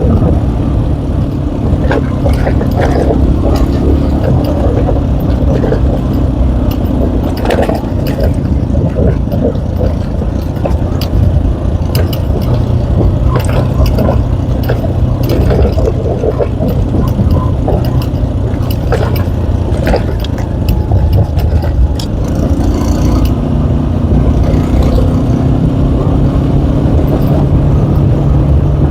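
K Moto ATX motorcycle engine running while the bike is ridden up a rough hill track, its pitch shifting slightly about two thirds of the way through, with scattered knocks and rattles.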